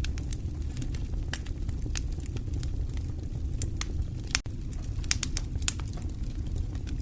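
Fireplace fire crackling: scattered sharp pops and snaps over a steady low rumble. The pops come thicker about five seconds in, and there is a brief gap in the sound just before that.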